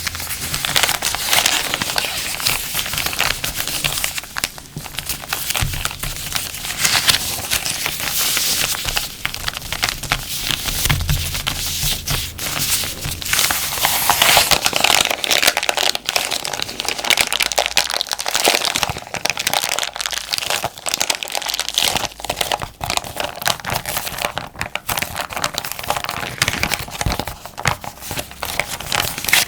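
Plastic zipper bag being crinkled and handled, a dense, continuous crackling of thin plastic with louder swells now and then.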